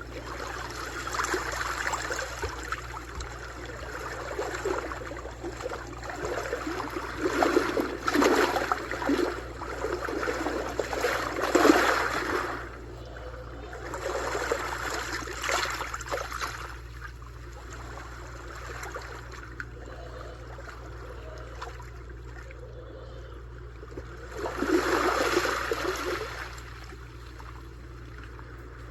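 Sea waves washing in and draining back on a shore, the water noise swelling and fading in several surges. The loudest comes near the middle, with another late on.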